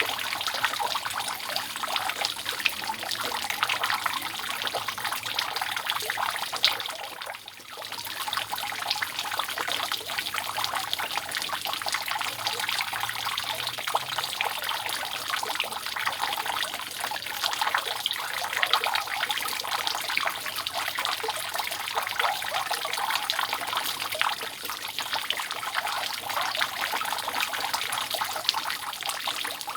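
Water dripping and trickling steadily off a roof, a dense continuous patter of drops that briefly drops away about seven seconds in.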